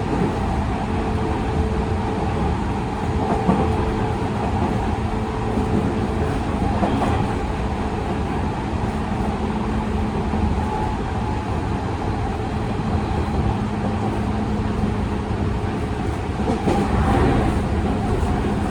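Tokyu 5000 series electric train running, heard from inside a motor car fitted with Hitachi IGBT-VVVF control and TKM-98 traction motors: a continuous rumble of wheels on rail with a steady hum from the drive. Near the end there is a louder stretch of rattling.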